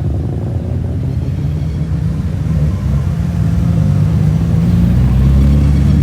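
Car engine rumbling at low revs, growing louder near the end.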